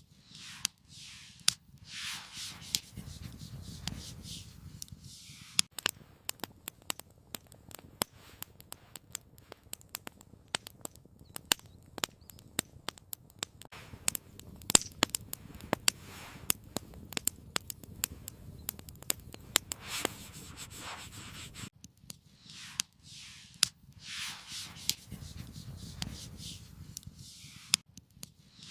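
Rasping rubbing or scraping strokes, about one a second, give way after about five seconds to a long stretch of irregular crackling and sharp snaps like a campfire. Near the end the rasping strokes return.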